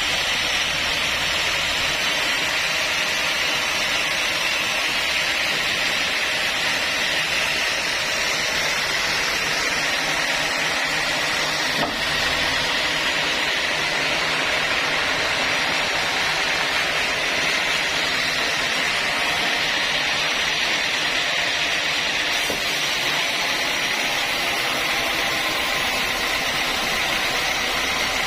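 Sawmill saw running steadily with a constant hiss, and a single brief click about halfway through.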